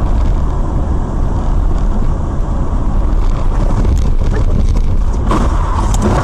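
Loud, steady rumble of a moving vehicle, with wind buffeting the microphone.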